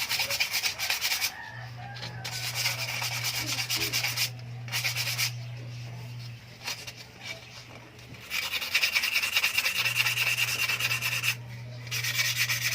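Sandpaper rubbing on a bike frame in several bursts of rapid back-and-forth strokes, over a steady low electrical hum.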